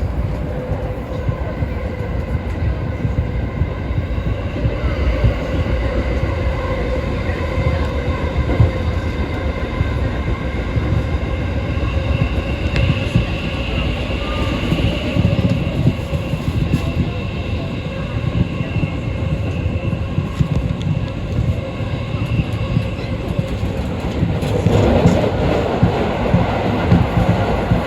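Passenger train running along the track, heard from inside the car: a steady rumble of wheels on rail with a faint steady whine. It grows louder and rougher about three-quarters of the way through.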